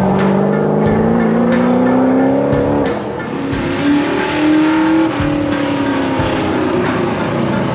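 Car engines running, one rising steadily in pitch over the first three seconds as it accelerates, with music playing along.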